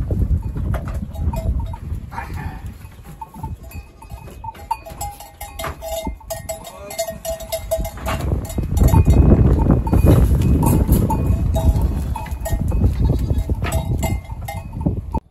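Goats with bells clanking and short pitched calls, over a heavy low rumble that is loudest in the second half and cuts off suddenly at the end.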